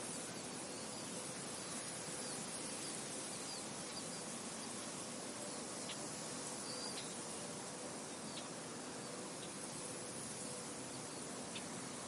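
Steady wind blowing across a field, an even hiss, with a few short high bird chirps scattered through the second half.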